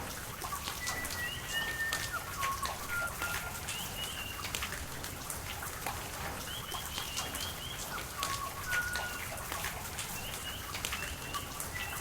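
Steady rain with many sharp drips and drops. Birds call over it in short whistled notes, with a quick run of five chirps a little past halfway.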